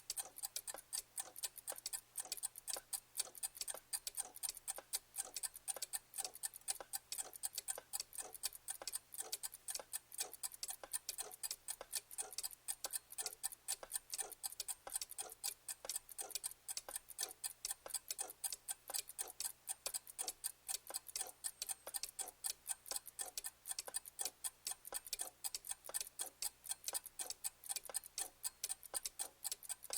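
Clock ticking: a fast, even run of sharp mechanical ticks, several a second.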